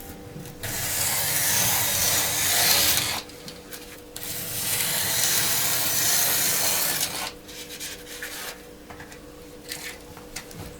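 A sharp utility knife drawn slowly through sheet material to cut brick blanks: two long scraping strokes of about three seconds each, followed by a few light clicks and taps.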